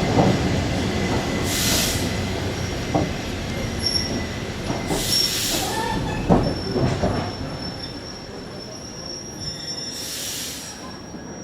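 Passenger train carriage running on the rails, heard from the train: wheels rumbling, with a thin steady squeal and a few knocks from the track. There are three short hisses, and the sound grows gradually quieter toward the end.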